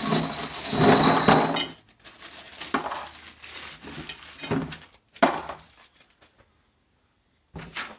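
Loose metal hardware and steel parts from the mill kit clattering as they are handled and set down: a loud jangle over the first second or two, then a few separate clanks before it goes still.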